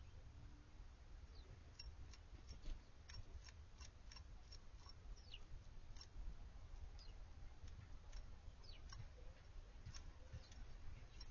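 Small songbirds giving short, sharp, high chip notes, scattered irregularly, several sliding quickly down in pitch, over a faint low rumble.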